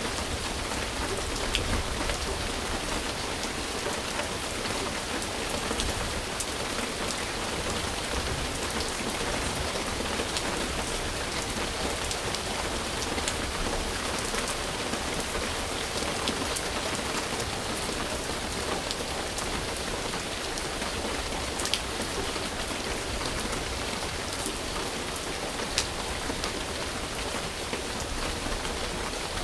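Steady rain falling on a surface, an even hiss with scattered individual drop ticks, two of them a little louder near the end.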